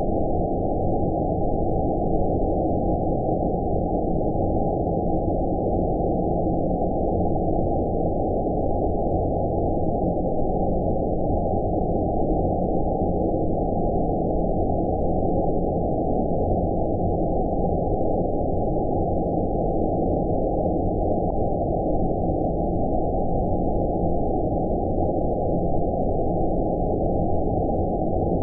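Synthetic 'outer space' ambient noise for sleep: a steady, deep, muffled noise with all the highs cut off, unchanging throughout.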